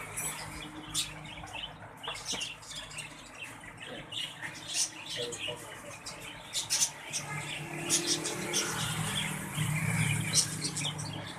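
Many small caged birds chirping and tweeting in quick, overlapping short calls. A low steady hum grows louder in the second half.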